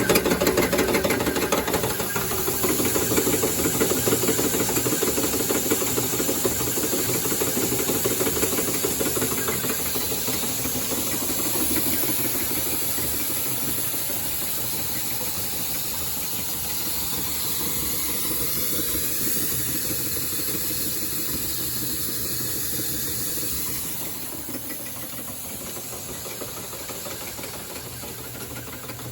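Ruston Hornsby 26 HP stationary diesel engine running steadily at its slow working speed, its beat overlaid with a steady hiss. The sound gets gradually quieter and drops a step about three-quarters of the way through.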